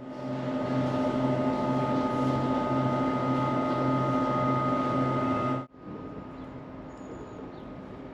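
A standing locomotive's engine running steadily at idle: a loud, even hum with a low throb that pulses a little under twice a second. It cuts off abruptly about two thirds of the way through, leaving a quieter steady hum and one short bird chirp.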